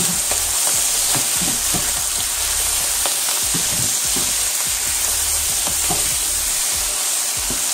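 Chicken pieces sizzling as they fry in a hot pan, a steady hiss, while a wooden spoon stirs them briskly, scraping and knocking against the pan in quick irregular clicks.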